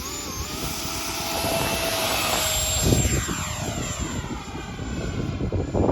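Electric ducted-fan whine of an FMS BAE Hawk model jet running at high power and sweeping past overhead, with the rush of its fan rising and falling as it passes. Heavy wind buffets the microphone throughout.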